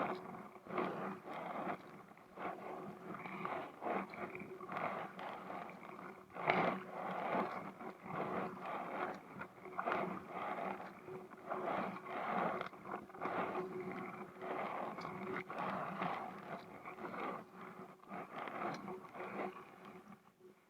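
Kayak paddle strokes swishing and splashing in the water, roughly one stroke every second or so, with a faint steady hum underneath.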